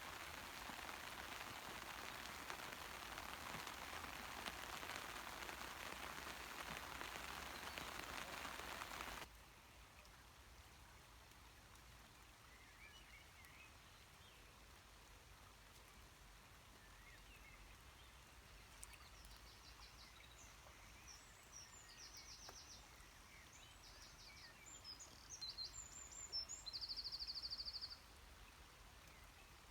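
Steady hiss of heavy rain for about the first nine seconds, cutting off abruptly. After it, a quieter background in which a small bird sings a series of high, trilled phrases in the second half, the loudest trill near the end.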